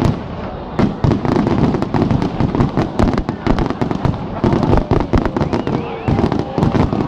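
Fireworks display: a dense, rapid barrage of firework bangs and crackling, several shots a second without a break.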